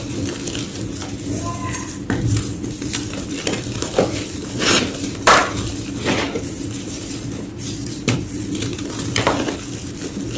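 White gym chalk being crushed and crumbled, irregular crisp crunches, the loudest few coming close together in the middle, over a steady low hum.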